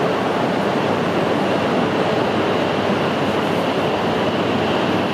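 Steady train noise from the Toreiyu Tsubasa, an E3 series Shinkansen train set, at the platform. The noise holds even throughout, with no distinct knocks or tones.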